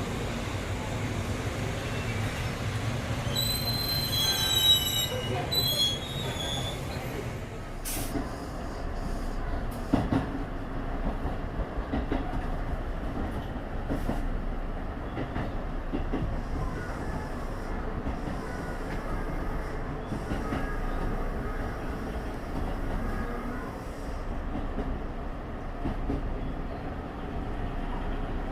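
Tobu Railway train rolling through the station, its wheels squealing with high shifting tones for a few seconds near the start, then running on with a steady rumble and a knock over the rail joints every couple of seconds.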